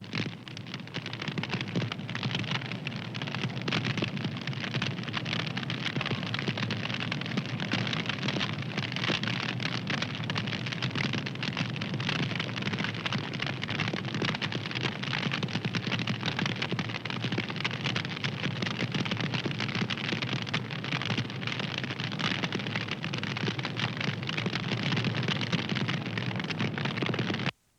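Wood fire crackling steadily, a dense run of small pops and snaps over a low rushing burn. It cuts out briefly near the end.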